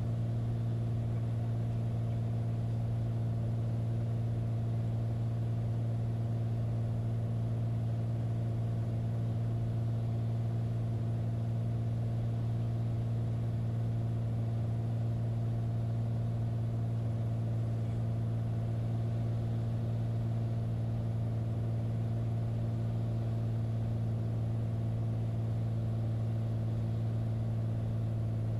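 Light aircraft engine and propeller droning steadily at constant power, heard from inside the cabin, with a strong low hum.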